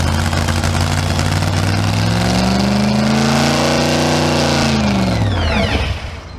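Supercharged 2,800-horsepower engine running very loud; its pitch climbs, then slides down as it winds down and dies away about five and a half seconds in.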